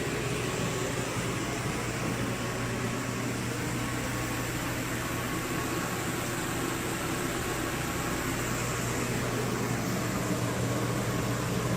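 Steady machine whirring with a constant low hum, unchanging throughout, like a fan or motor running.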